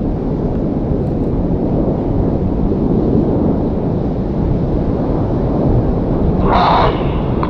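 Steady low roar of BAE Hawk jet trainers' Adour turbofan engines overhead during an aerobatic formation display, with a brief higher-pitched sound about three-quarters of the way through.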